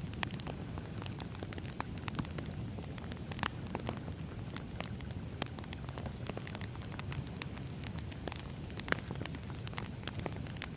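Wood fire burning: many irregular sharp crackles and pops over a steady low rumble of the flames.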